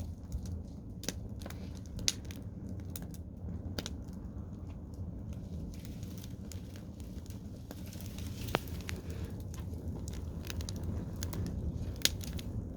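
Garden bonfire burning, crackling with scattered sharp pops over a steady low rumble.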